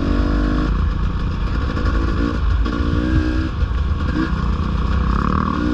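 Dirt bike engine revving in three short bursts, over a constant low rumble, as the bike is ridden over logs on a trail.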